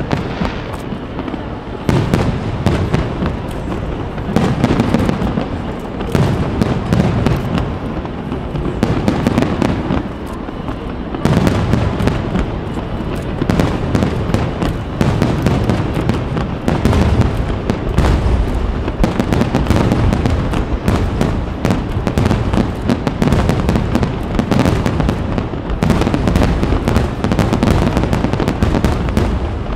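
Aerial fireworks display: shell bursts and crackling come thick and fast with no break, a dense run of bangs one after another.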